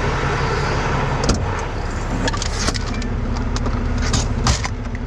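Heavy diesel truck engine idling steadily, with a few sharp metallic clicks and clinks over it.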